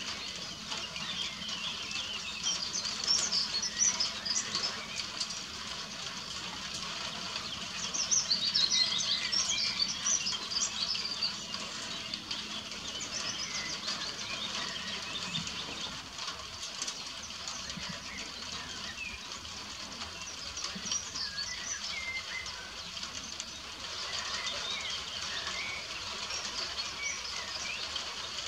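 Woodland birdsong: many short, high chirps and trills from several birds, thickest in two spells early on and near the middle, over a steady hiss of rain.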